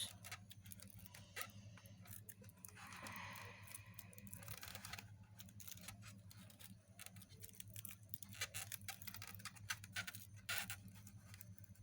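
Faint small clicks and taps with a brief rustle about three seconds in, over a low steady hum: close handling noise from fingers working a pinned cicada's wings.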